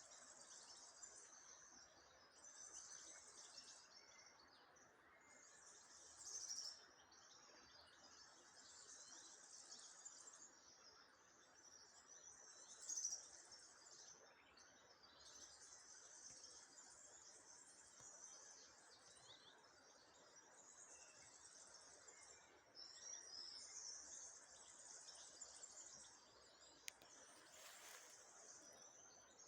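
Small birds singing in short, high-pitched phrases repeated every couple of seconds, over a faint steady rush of the river.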